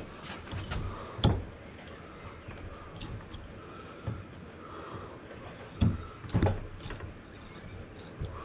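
A few sharp knocks and light clicking from tools and wood being handled at a workbench, the loudest knock about a second in and two more near six seconds in.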